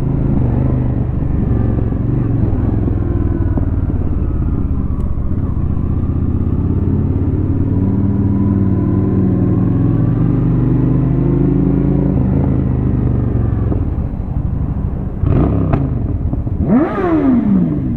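2004 Honda Shadow 750's V-twin engine running under way. Its pitch dips and climbs again through the middle, then rises and falls in a few quick sweeps of throttle near the end.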